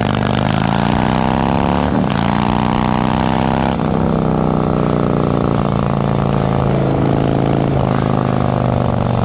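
Harley-Davidson Milwaukee-Eight V-twin running through an S&S Sidewinder 2-into-1 exhaust under acceleration on the road. The pitch climbs and then drops at upshifts about 2, 4 and 8 seconds in.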